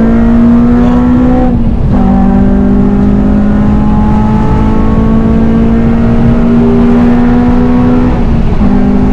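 Modified Honda Civic Type R's K-series four-cylinder engine pulling hard under load from inside the cabin, its note climbing slowly, with a brief break and a drop in pitch about two seconds in and again near the end: upshifts.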